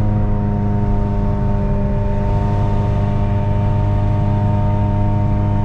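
2004 Honda Civic coupe's four-cylinder engine and exhaust droning at a steady pitch while cruising at constant speed, with road noise beneath.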